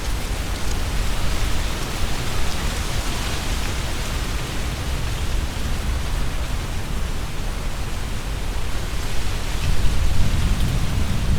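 Strong gusty wind rustling through tree leaves, with a low rumble of wind buffeting the microphone that swells near the end.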